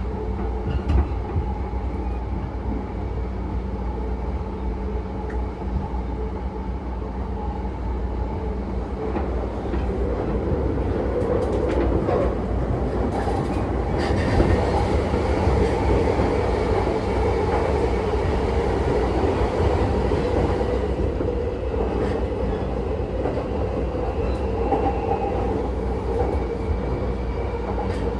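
Running sound inside an E235-series electric train's motor car on the Yamanote Line: a steady rumble of wheels on rail with the traction motor's hum, growing a little louder about ten seconds in.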